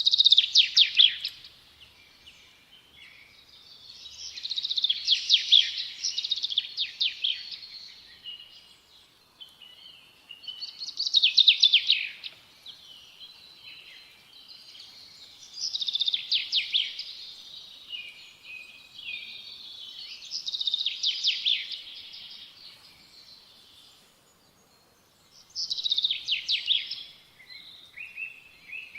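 A songbird singing a fast, trilled phrase, repeated six times at intervals of about five seconds, with faint outdoor background between phrases.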